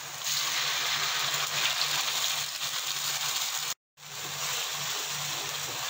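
Chilli paste sizzling in hot oil with sliced onions in a wok as it is poured in and stirred with a wooden spatula; the sizzle swells just after the paste goes in. The sound breaks off for a moment a little under four seconds in.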